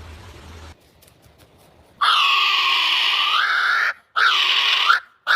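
An animal calling three times: a loud call of about two seconds beginning about two seconds in, a shorter call after it, and a third starting near the end.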